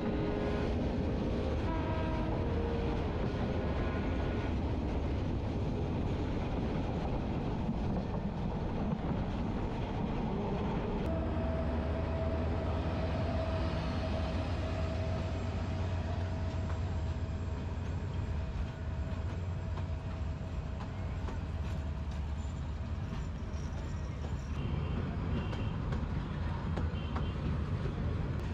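A train running, heard from the open window of a moving carriage. About a third of the way in this gives way to a Bangladesh Railway diesel locomotive and its coaches passing close by, with a steady deep engine drone and a long held tone.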